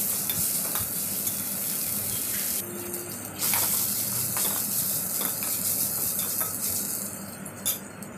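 Chopped onion and tomato sizzling in oil in a metal kadai, with a steel spoon scraping and clicking against the pan as it is stirred. The sizzle briefly drops out about three seconds in and fades near the end.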